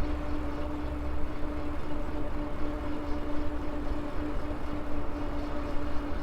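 Electric motor of a Maxtron Mule folding e-bike humming with a steady tone under way. Gusty wind rumble on the microphone and rolling noise lie beneath it.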